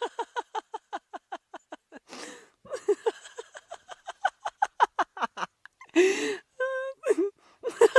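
A person laughing hard in quick runs of 'ha' pulses, about five or six a second, with wheezing gasps for breath between the runs and a short held squeal near the end.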